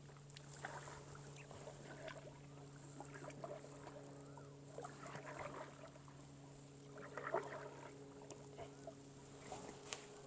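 Faint splashes and drips of a kayak paddle dipping into still water, in scattered strokes with the clearest about two-thirds of the way through, over a steady low hum.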